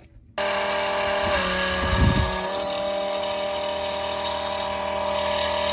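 Engine running at a steady idle, cutting in abruptly about half a second in, with a low thump about two seconds in.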